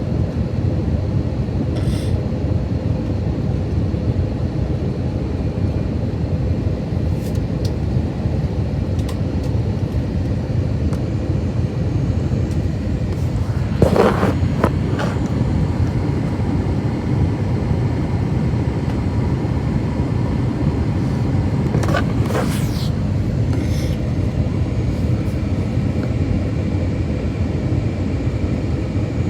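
Airbus A321-200 cabin noise on final approach: a loud, steady rumble of engines and airflow. A short loud knock or rattle comes a little before halfway, and lighter clicks or rattles follow later.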